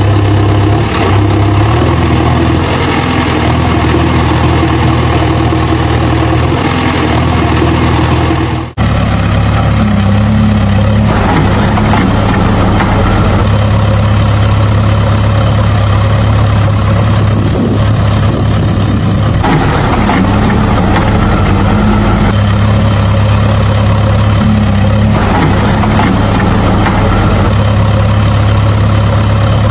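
Engine idling steadily. It breaks off for an instant about nine seconds in and comes back with a slightly different tone.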